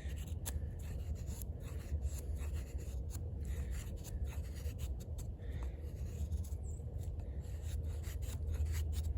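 Thick steel blade of a fixed-blade camp knife shaving curls down a wooden stick in repeated short scraping strokes, carving a feather stick, over a steady low rumble.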